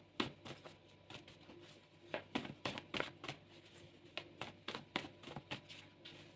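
Tarot cards being handled and shuffled: a run of irregular light clicks and snaps, about three a second.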